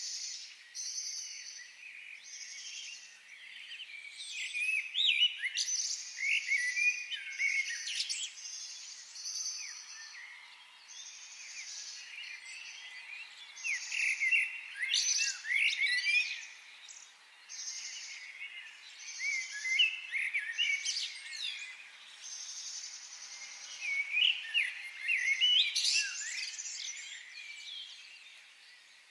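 Several songbirds singing in bursts of quick, sweeping whistled phrases. Under them an insect buzzes in even pulses about once a second.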